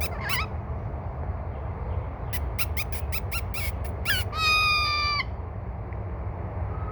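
Hawk-headed parrot calling: a short rising call, then a quick run of about eight sharp chirps, then one long, even, nasal call about a second long.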